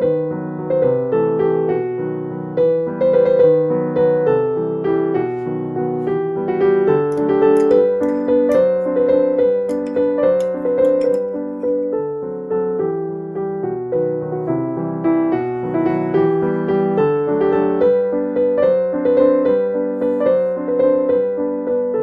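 Background piano music playing steadily, a flowing melody of notes changing several times a second.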